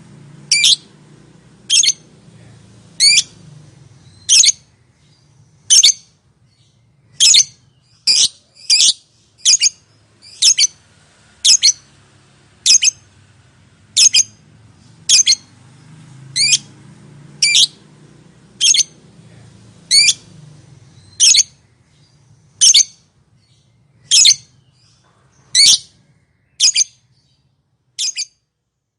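Lovebird giving short, shrill, high-pitched squawking calls, one every second or so, over a faint low hum.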